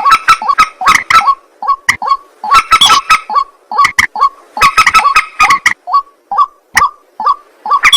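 White-breasted waterhen and common moorhen calling at night: a rapid, unbroken run of short, harsh, honking calls, several a second, with sharp clicks scattered among them.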